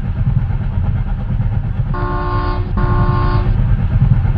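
Train running with a steady low rumble; about two seconds in, its horn sounds two held blasts back to back.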